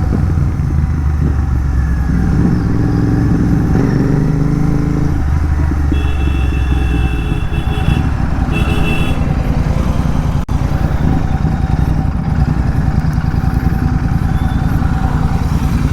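Royal Enfield Continental GT 650's parallel-twin engine running through an aftermarket megaphone exhaust under way, heard from the bike itself. The engine note changes a few times, around four to five seconds in and again near seven seconds.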